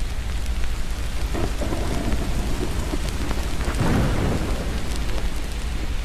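Steady rain with a roll of thunder that builds about a second and a half in, peaks around four seconds and dies away. Small fireplace crackles tick over the top.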